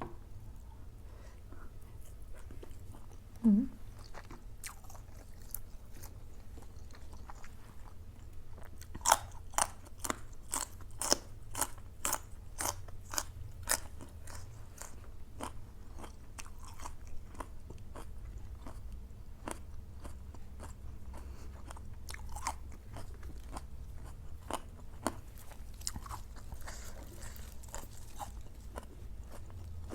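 A person chewing food close to the microphone, with a run of loud crunching bites at about two to three a second in the middle and softer chewing clicks before and after. There is a brief low hum about three and a half seconds in.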